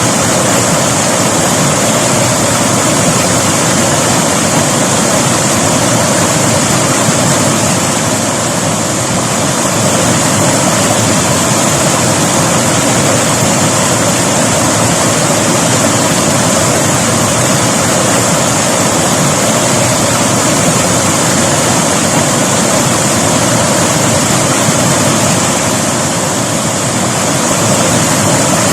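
River water rushing and splashing over rocks, a loud steady rush with no pauses.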